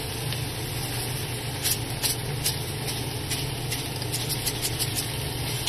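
Salmon fillets frying in olive oil on a flat griddle: a steady sizzle over a constant low hum, with a few small crackles.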